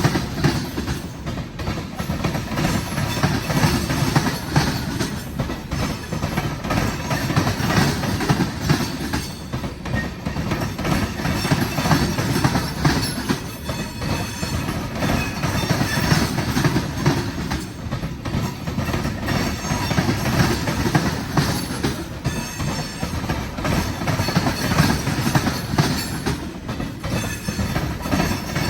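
A long freight train's cars rolling past close by: a steady rumble with a continuous clatter of steel wheels on the rails.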